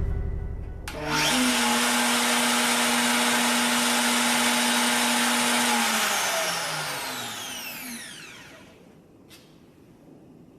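Makita RP2300 plunge router mounted under a Kreg benchtop router table, switched on about a second in and running steadily at a constant pitch. It is switched off around six seconds in and spins down, its pitch falling as it coasts to a stop.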